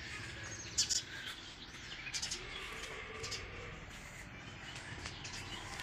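Small birds chirping off and on, a few short high chirps spread over several seconds, above a faint steady outdoor hiss.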